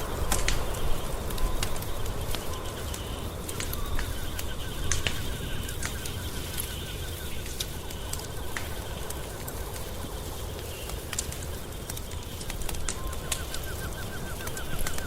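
Wood fire crackling, with frequent sharp pops over a low rumble. A fast run of short repeated chirps sounds in the background for a few seconds around the middle and again near the end.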